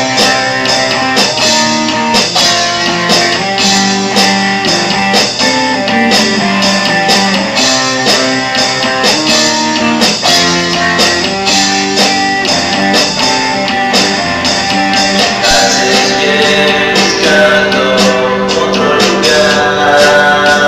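Psychedelic rock song played by a band, led by guitars over a steady beat, with a gliding melodic line in the last few seconds.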